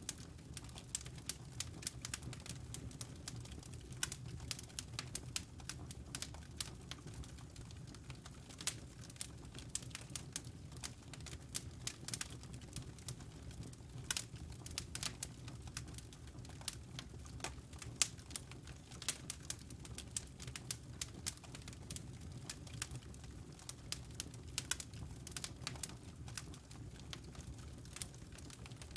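Wood fire crackling: irregular sharp snaps and pops over a steady low hum.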